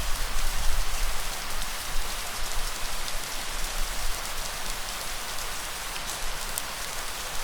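Steady heavy rain falling, a dense even hiss with scattered individual drop patters.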